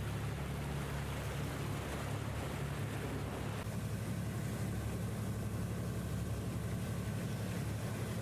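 Boat engine running steadily under way, a low even hum with the rush of water and wind over it. About three and a half seconds in the hiss eases and a faint steady whine comes in.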